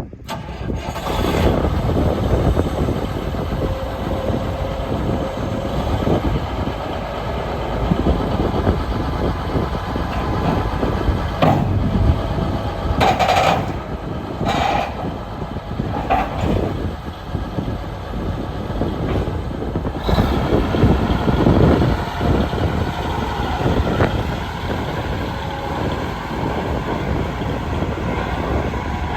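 Case IH 9170 four-wheel-drive tractor's diesel engine running steadily, with a few short, sharper clanking sounds in the middle.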